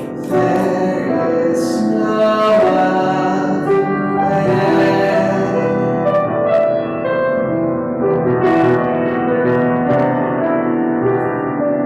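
Piano music playing, a steady flow of held chords and melody notes.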